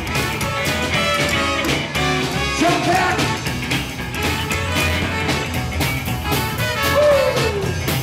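Live swing band playing an up-tempo number, with a note sliding down near the end.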